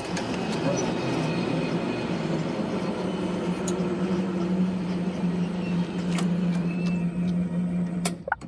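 A vehicle engine running at idle: a low steady hum over a bed of traffic noise, with a few faint sharp clicks.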